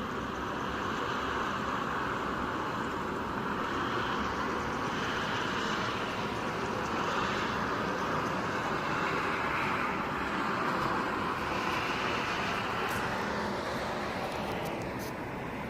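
Heavy thunderstorm rain, a steady rushing that swells and eases every few seconds, with a few sharp clicks near the end.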